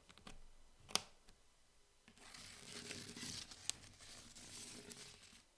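A single sharp click about a second in, then crinkly packaging being handled close to the microphone, rustling and crinkling for about three seconds.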